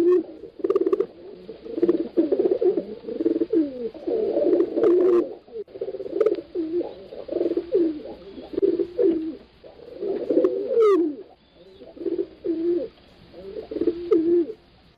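Pigeons cooing in repeated low, wavering phrases, the coos overlapping at times.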